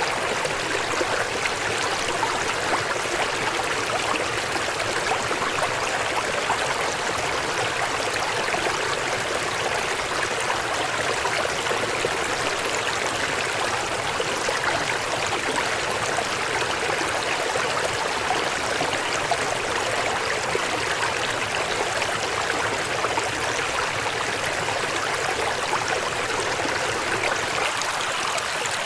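Small mountain stream running over stones, a steady even rush and babble of water.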